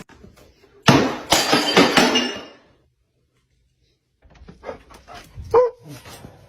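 A loud burst of noisy clattering with a dog's barking, then a short gap, then quieter scuffling sounds with a brief dog vocalisation near the end.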